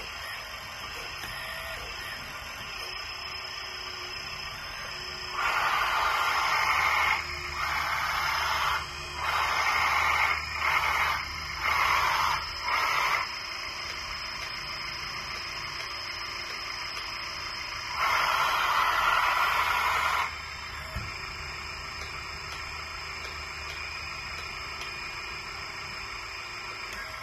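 Scale RC hydraulic skid steer loader's electric hydraulic pump running steadily with a high whine. It grows louder and harsher in about six short bursts and then one longer burst as the hydraulic controls are worked and the pump comes under load.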